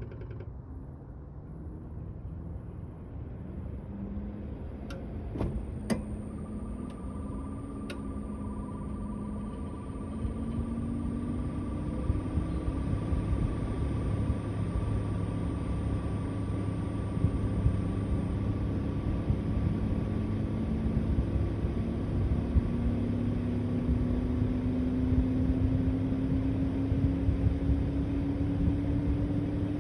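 The outdoor unit of a Mitsubishi Heavy Industries Beaver SRK56TX2 air conditioner starting up. A few sharp clicks come about five to eight seconds in, the start-up switching that includes the four-way valve. Then the inverter compressor's hum climbs slowly in pitch and grows louder as it spins up, over a steady rumble.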